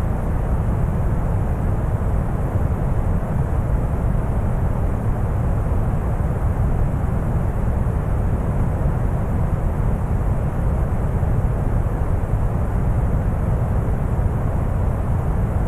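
Deep brown noise: a steady, unchanging low rumbling hiss, weighted heavily toward the bass with only faint hiss in the highs.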